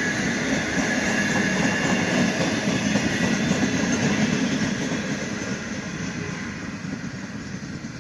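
Empty grain train wagons rolling past on the rails, an even rumble that fades away over the last few seconds.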